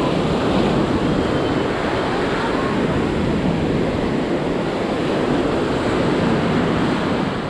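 Ocean surf washing onto a sandy beach, a steady rushing noise that swells at the start and eases off near the end, mixed with wind on the microphone.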